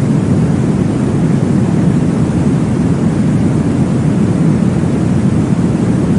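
Steady, deep whooshing noise of a baby sleep sound, with most of its weight low down and little hiss on top, unchanging throughout.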